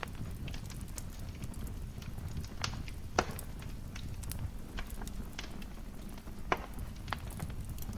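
Wood fire crackling in a fireplace: a steady low rumble of the flames with scattered sharp pops, two louder ones about three seconds and six and a half seconds in.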